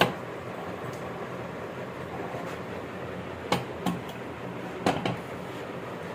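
A few sharp clinks and knocks of metal parts or tools being handled, a pair about three and a half seconds in and another pair about a second later, over a steady workshop hum.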